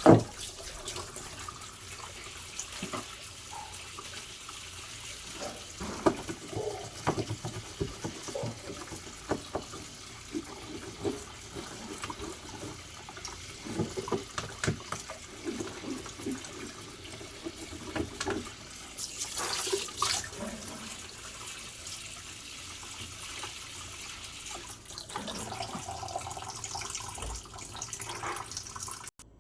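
Water running and splashing, with irregular knocks and clatter of parts being handled, as a twin-tub washing machine is washed out.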